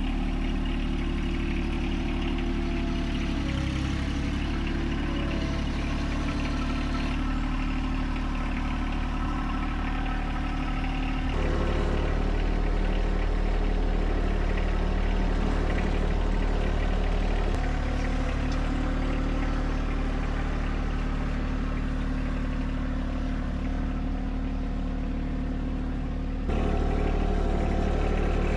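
John Deere 1025R compact tractor's three-cylinder diesel engine running steadily, the tractor moving a bucket load of broken concrete. The engine sound steps up in level about twelve seconds in and again near the end.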